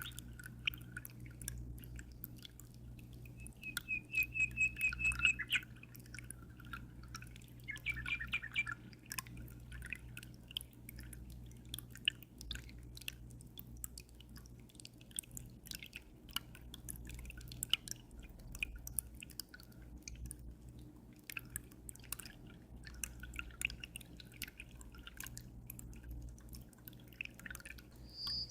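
Water dripping and trickling in an aquarium, a dense patter of small drops over a steady low hum. A bird chirps a short trill about four seconds in and again around eight seconds.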